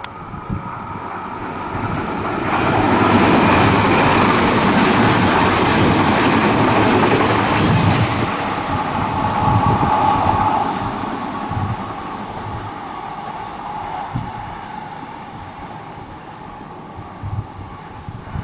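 Odakyu 60000 series MSE limited-express electric train passing through the station without stopping. The rumble of wheels on rail swells over about two seconds and stays loud for several seconds, then a steady whine is heard, and the train fades away over the last few seconds.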